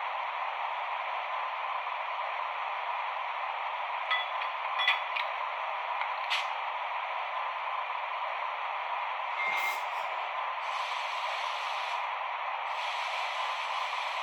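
Sound decoder of a Piko H0 model of an EU07 electric locomotive playing a steady mechanical running noise through its small speaker, with a faint hum. A few light clicks come after about four seconds, a short hiss comes near the middle, and a higher hiss joins later.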